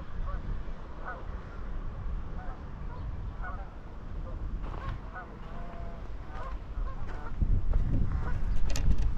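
Many short bird calls, scattered and overlapping, over a steady low rumble.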